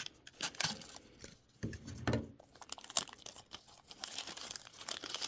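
Paper and cardboard packaging of a small phone power adapter being handled and torn open: irregular rustling, crinkling and tearing with scattered sharp clicks, busiest in the second half.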